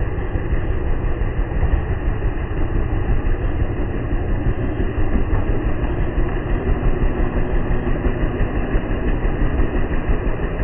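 John Deere 2038R compact tractor's diesel engine running steadily under load.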